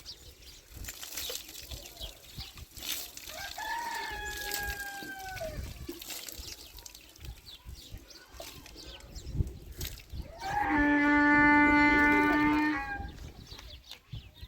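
Rooster crowing: one long, steady crow lasting about two seconds near the end, the loudest sound, after a fainter, slightly falling call a few seconds in. Scattered small knocks are heard throughout.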